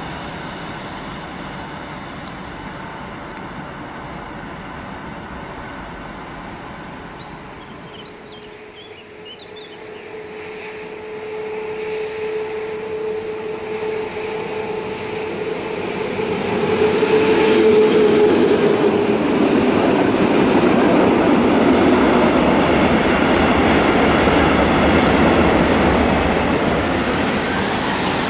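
Recorded sound of a real Flåm Railway train running on the rails: quieter at first, building from about ten seconds in to a steady loud run, with a steady whine through the middle.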